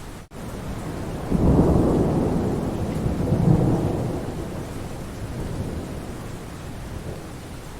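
Rain falling steadily in a thunderstorm, with a roll of thunder that swells in about a second in and slowly dies away. There is a brief dropout in the sound just after the start.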